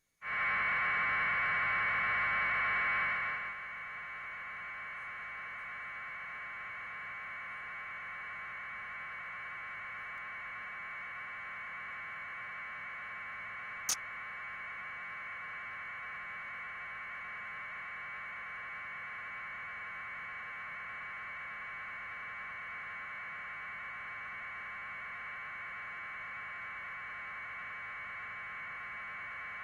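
Steady electronic hiss of static, narrow and mid-pitched, louder for the first three or four seconds and then level. A single sharp click comes about fourteen seconds in.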